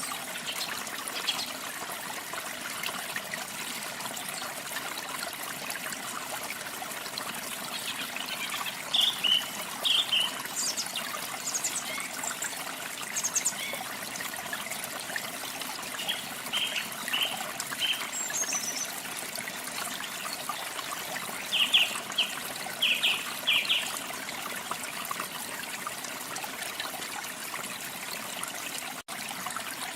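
Steady rush of waterfall water, with short bird chirps and song phrases scattered through it, busiest about a third of the way in and again past two-thirds. A brief dropout near the end.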